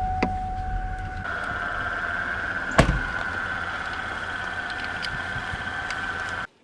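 A car door shuts once, sharply, about three seconds in, over a steady high tone that steps up in pitch about a second in.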